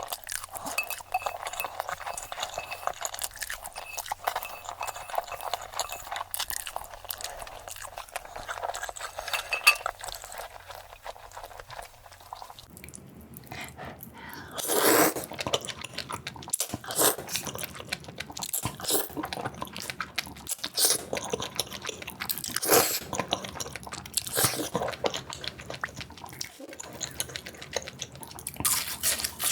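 Close-miked eating sounds, crunching and chewing, played sped up. About halfway through the sound changes abruptly to a different eater, with sharper, louder crunches.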